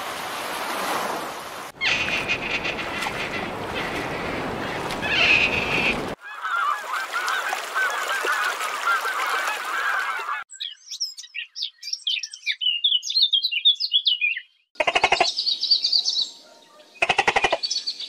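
A flock of domestic geese honking in a dense, overlapping clamour for about four seconds, from about six seconds in. Before it comes a steady rushing noise. After it come high, quick chirps of small birds, then short bursts of rapid pulsed calls near the end.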